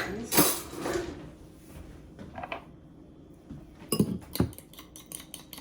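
Kitchen utensil clatter near the start, then from about four seconds in a fork clicking quickly and steadily against a bowl as a mayonnaise dressing is stirred.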